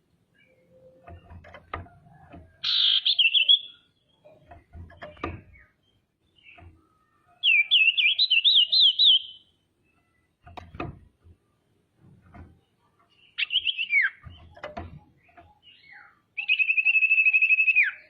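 Female common iora singing in four short bursts of rapid, zigzagging whistled trills, the last a fast even trill that drops in pitch at its end. Faint short knocks come between the phrases.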